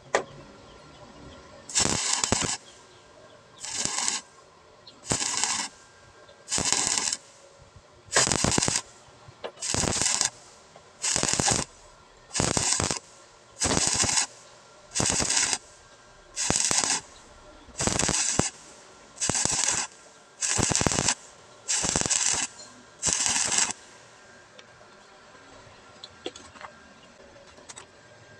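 Stick-welding arc crackling in short, repeated strikes: about sixteen bursts of under a second each, one every second and a half or so, as the electrode is struck and broken off again to stitch across a small gap. The bursts stop a few seconds before the end, leaving a low steady hum.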